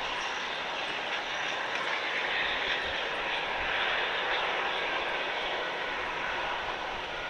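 Jet airliner engines running, a steady rushing noise strongest in the upper-middle range, holding level throughout.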